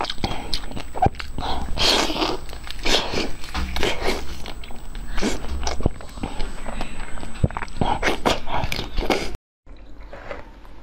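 Chewing and mouth clicks from eating a soft green bun, many short wet crackles and smacks. Near the end the sound cuts off abruptly for a moment, then returns quieter.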